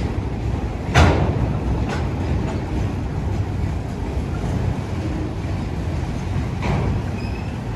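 Freight train cars (tank cars and autoracks) rolling past with a steady low rumble. A sharp metallic clank sounds about a second in, with fainter clanks at about two seconds and near the end.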